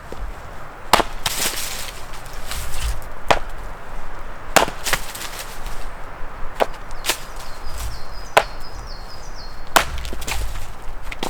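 Chopping on wood: about eight sharp, hard strikes spaced irregularly a second or two apart.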